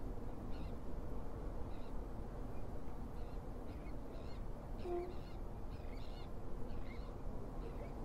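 Birds giving short, high calls over and over at irregular intervals, with a steady low rumble underneath.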